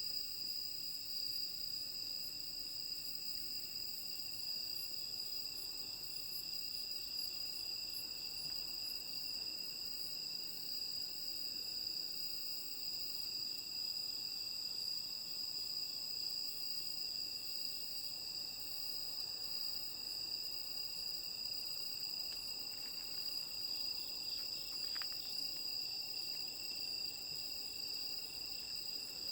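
Night chorus of autumn crickets and other insects, several singing steadily at different high pitches at once, with a higher chirp that repeats evenly.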